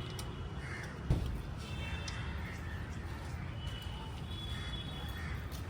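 Crows cawing now and then, with a single sharp knock about a second in.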